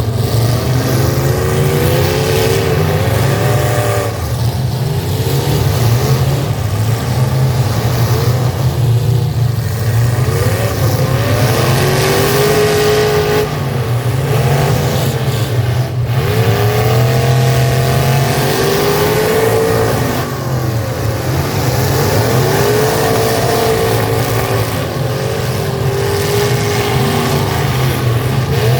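Several demolition-derby truck engines revving hard over and over, their pitch rising and falling, above a steady low rumble.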